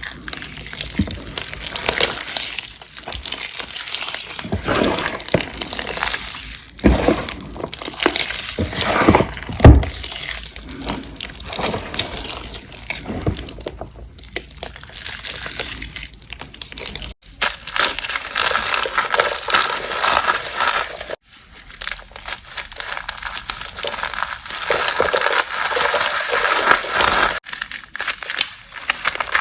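Gym chalk and cornstarch being crushed and crumbled, a gritty crunching with a few dull thumps in the first half. The sound breaks off abruptly three times in the second half.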